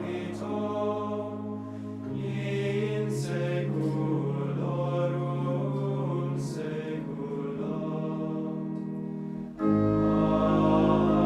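Choir singing a slow chanted hymn with organ, long held notes moving step by step. About nine and a half seconds in the music swells suddenly, louder and with deep bass notes entering.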